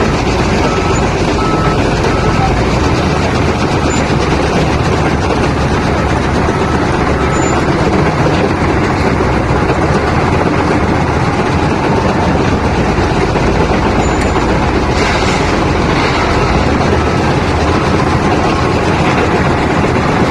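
Diesel engine of a Lovol FL936H wheel loader running steadily and loudly.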